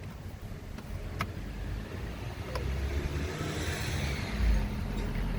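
A car running close by, its engine rumble and tyre noise growing steadily louder as it approaches, with two sharp clicks in the first half.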